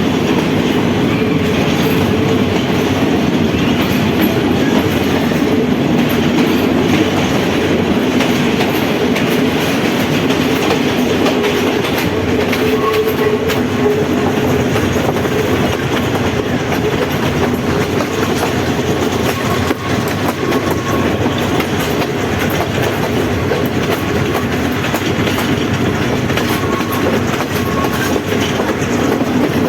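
Passenger train running along the track, heard from aboard: a steady rumble of the carriage with wheels clicking over the rail joints, and a few faint short squeals now and then.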